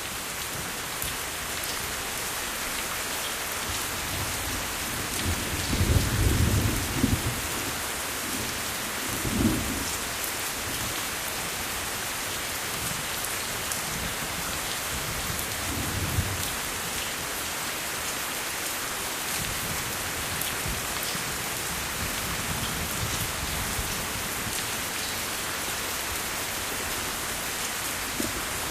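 Steady rain falling, with low rolls of thunder: the loudest about six seconds in, smaller ones near ten and sixteen seconds.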